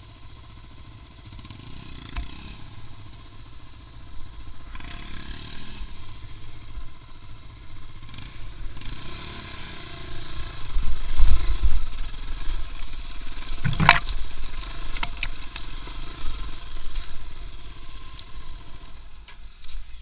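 A motor vehicle's engine running with a low rumble that grows louder about ten to twelve seconds in. There is a single sharp knock about fourteen seconds in.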